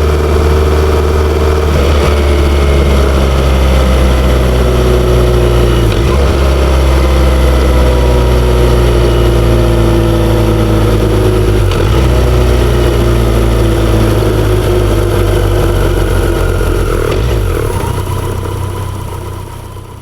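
BMW K1100LT motorcycle's inline four-cylinder engine running under way, its note drifting slowly lower, with brief breaks about a third and two thirds of the way in. The sound fades out over the last couple of seconds.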